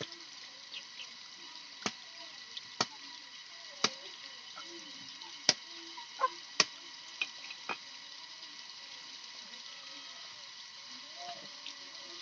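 About eight sharp knocks and clicks at irregular intervals, mostly in the first two-thirds, over a faint steady hiss.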